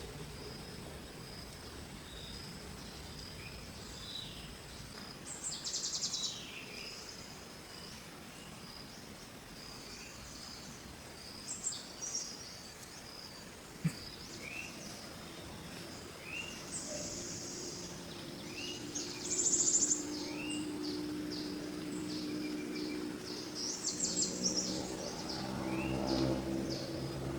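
Birds calling in a series of short repeated chirps and a few high trills, over a faint steady high insect whine. From a little past halfway a low steady hum with several pitches grows louder toward the end.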